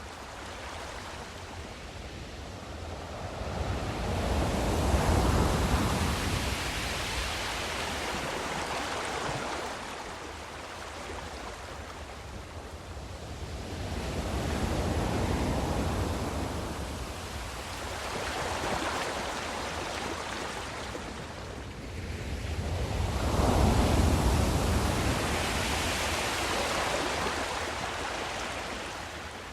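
Ocean surf: waves breaking and washing in, the rush of water swelling and ebbing in slow surges several seconds apart. The largest waves come about a fifth of the way in and again about four-fifths of the way through.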